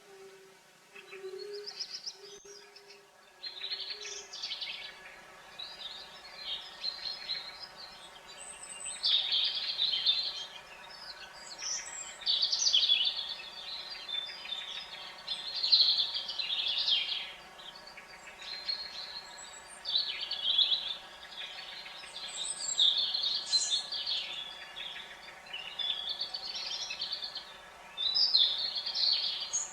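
A songbird singing short, busy phrases of high chirping notes, one every second or two. A fly buzzes for the first few seconds.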